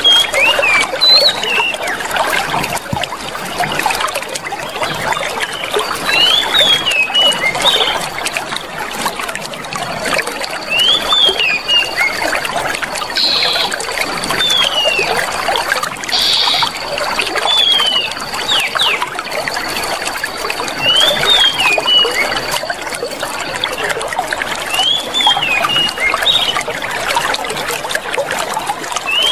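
Clear water flowing and trickling steadily, with short chirping bird calls in small groups every few seconds. A thin, high steady tone holds for several seconds in the middle.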